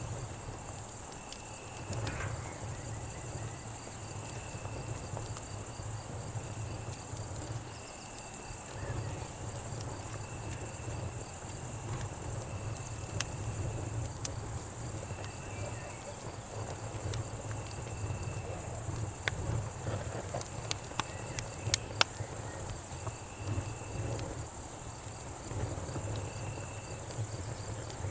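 Night insect chorus of cicadas and crickets: a steady high-pitched buzz with a shorter chirping trill repeating in bursts about a second long. Under it a campfire crackles with scattered sharp pops, a quick run of them about twenty seconds in.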